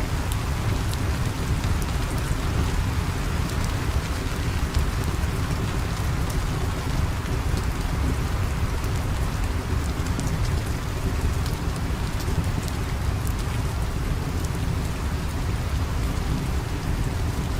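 Steady heavy rain falling, a dense even hiss with a strong low rumble, with scattered faint sharp clicks through it.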